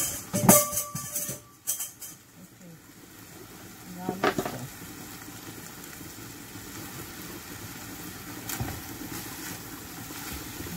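Minced beef with onion, tomato and garlic frying in oil in a nonstick pan, sizzling steadily. There are a few sharp knocks and clicks in the first two seconds, and a short pitched sound about four seconds in.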